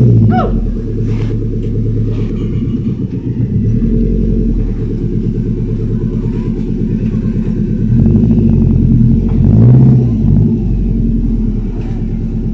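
Toyota 4A-GE four-cylinder DOHC engine running at idle and blipped several times, the revs rising and falling briefly each time.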